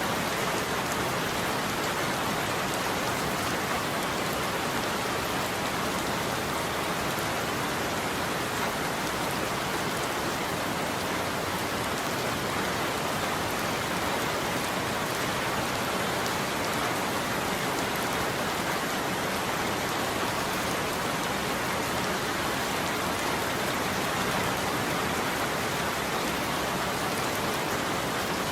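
Steady rain falling on a roof, an even patter with no thunder.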